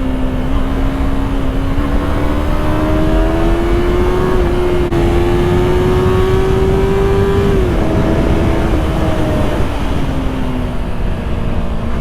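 Yamaha R3's 321 cc parallel-twin engine pulling at cruising speed. Its pitch climbs slowly, then drops about eight seconds in and keeps sinking as the throttle eases or a gear changes. Heavy wind rumbles over the microphone.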